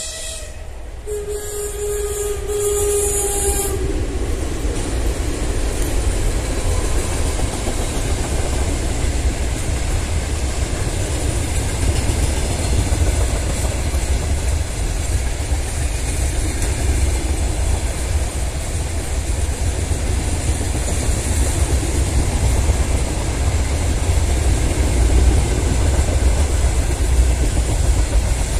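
Freight train hauled by VL11M electric and 2TE10M diesel locomotives. A locomotive horn blast sounds about a second in and lasts roughly two and a half seconds. After it the wagons rumble and clatter past, growing steadily louder.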